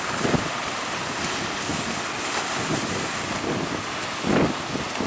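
Strong wind buffeting the microphone over the rush of surf, with a few short gusty surges.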